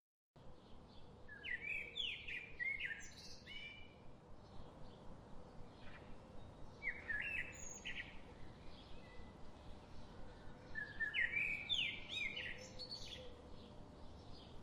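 Songbirds singing in a forest: three bursts of quick, high chirping phrases, with fainter chirps between them over a steady background hiss.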